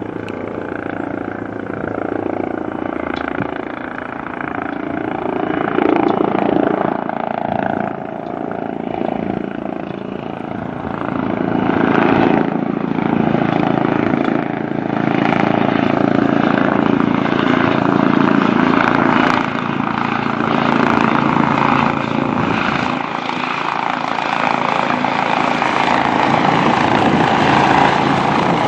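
Air ambulance helicopter's rotor and turbine engine noise, steady and growing louder over the stretch.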